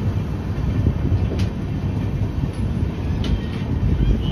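Passenger train coaches of the Darbhanga–Sabarmati Express running along the track: a steady low rumble of wheels on the rails, with a few sharp clicks.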